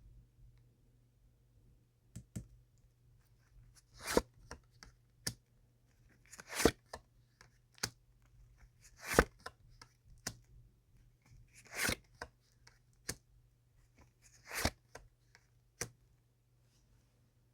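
Tarot cards being handled and laid out on a table: five short swishes of card against card or cloth, roughly every two and a half seconds, with light taps and clicks between them.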